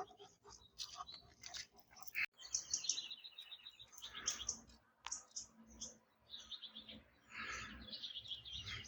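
Rust being stripped by hand off a lawn tractor's steel exhaust pipe: irregular short scratchy scraping strokes of abrasive on rusty metal.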